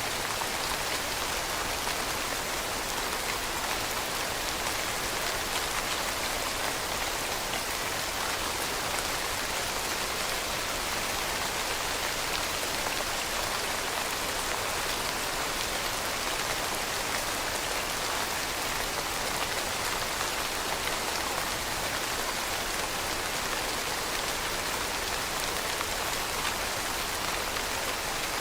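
Steady rain falling, an even, unbroken hiss of many drops hitting a surface.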